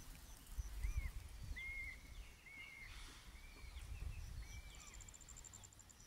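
Faint birds chirping: short arched call notes repeat about once a second, over an intermittent low rumble that is loudest about a second in.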